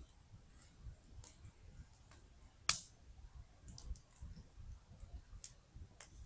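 Campfire wood crackling: scattered small snaps and pops, with one loud sharp pop about halfway through, over a faint low rumble.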